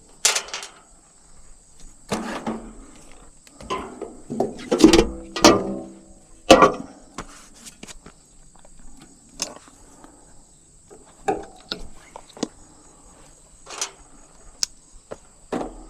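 Scattered knocks, clinks and rattles of tools and metal parts being handled during work on a heat pump unit. The loudest clanks come around five and six and a half seconds in, one with a brief ring. A faint, steady, high-pitched whine sits underneath.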